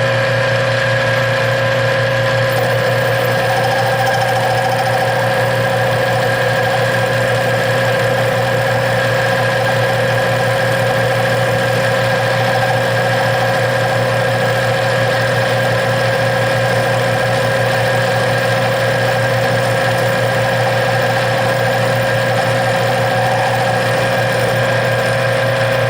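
Metal lathe running steadily with a constant motor hum, turning a piece of aluminum stock round.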